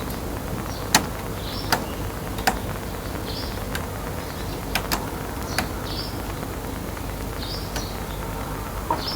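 A sparrow giving short, high chirps every second or two, with sharp clicks or taps scattered between them, the clicks being the loudest sounds. A steady low hum runs underneath.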